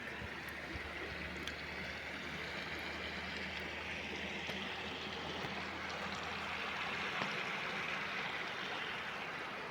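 Stream water running steadily, with a faint low steady hum underneath.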